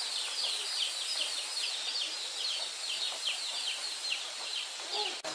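Young chicks peeping: a steady run of short, high, falling cheeps, several a second, with a brief lower call near the end before the sound cuts off suddenly.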